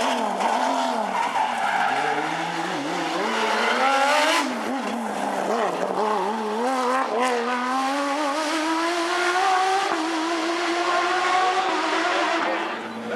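Porsche rally car engine at full effort, its pitch swinging up and down through lifts and gear changes, then a long steady rise under hard acceleration before it drops off near the end.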